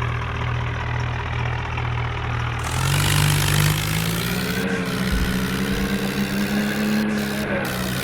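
Tractor engine running steadily, then revving up about three seconds in and holding at a higher pitch.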